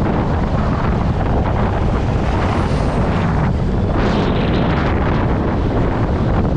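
Heavy wind buffeting the microphone of a moving Honda Click 125i scooter, with road and engine noise underneath. About four seconds in, a brighter hiss rises for roughly a second.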